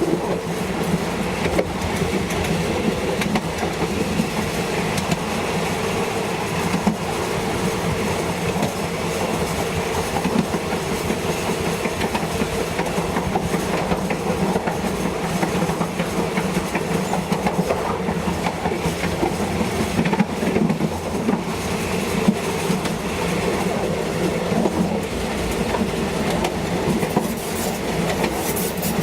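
Passenger train running along the track, a steady rumbling drone with frequent clicks of the wheels over the rail joints.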